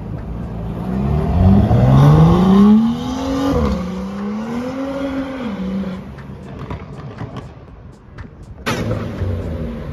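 BMW M2 turbocharged straight-six accelerating hard away. Its note rises, drops at a gear change about three and a half seconds in, rises again in the next gear, then fades as the car pulls away. Near the end another engine's sound starts abruptly.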